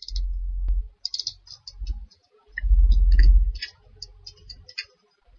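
Computer mouse clicking repeatedly, a quick series of short clicks, with a few low rumbling thumps from the desk or microphone in between.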